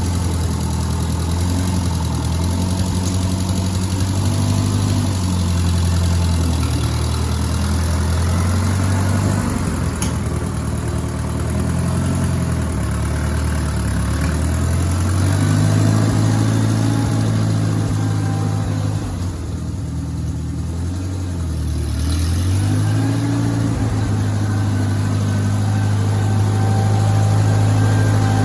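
Allis-Chalmers I-600 industrial tractor engine running, its pitch shifting up and down several times as the engine speed changes.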